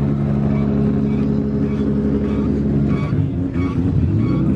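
Nissan Silvia drift car's SR four-cylinder engine idling low while still cold. About three seconds in, its note drops and turns uneven.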